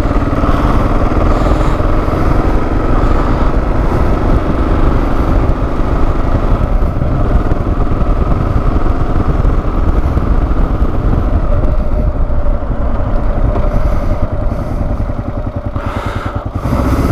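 Kawasaki KLR650's single-cylinder four-stroke engine running under way. The sound eases for a few seconds about two-thirds of the way through, then picks up again.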